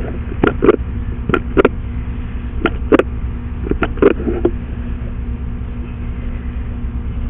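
Sewer inspection camera's push cable and reel being fed into the line, giving irregular sharp clicks and knocks over a steady low drone. The knocks come in clusters during the first four seconds or so, then only the drone remains.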